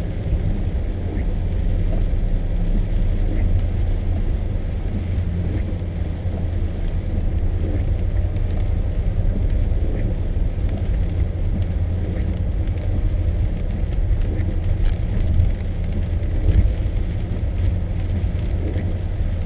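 Steady low rumble of a car on the move, heard from inside the cabin: engine and tyre noise while driving.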